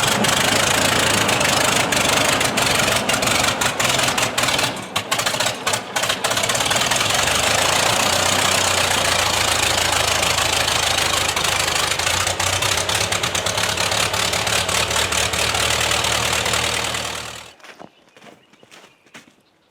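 Old tractor engine, started after sitting for a couple of months, running steadily at idle and faltering briefly about five seconds in. It dies away near the end.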